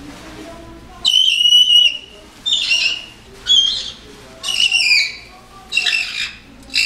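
A pet talking bird giving a run of loud, high-pitched squawking calls, about six of them, each under a second long and about a second apart, starting about a second in.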